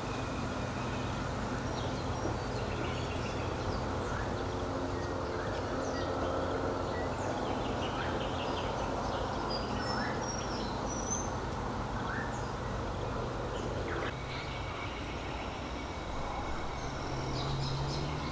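Scattered short chirps and whistles of bush birds over a steady low hum of distant engines, the sound of cars and motor mowers close by.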